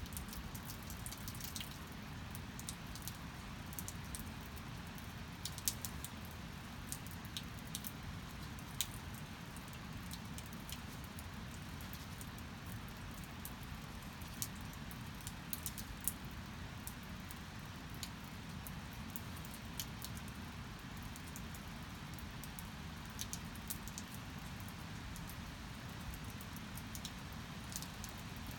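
Steady rain, with many scattered drips and light taps throughout.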